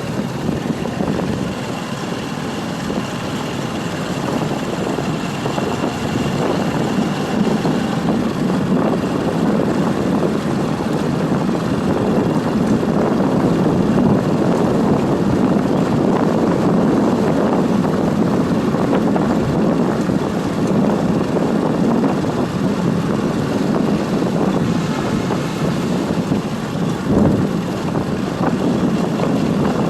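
Steady rumble of a moving motorbike with wind buffeting the microphone, and a single brief thump about 27 seconds in.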